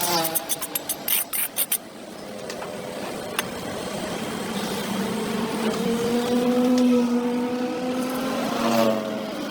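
A motor vehicle's engine hum swells as it passes along the road, loudest about two-thirds of the way through, then eases. It is preceded by a quick run of scraping and clicking strokes in the first two seconds.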